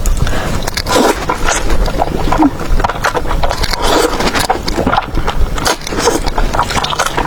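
Close-miked eating sounds: chewing and munching food into the microphone, a dense, irregular run of small wet clicks and smacks.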